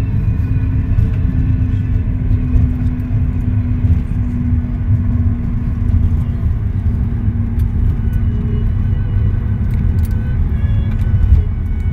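Steady low rumble of a moving vehicle heard from inside, with a steady hum that fades out about halfway through.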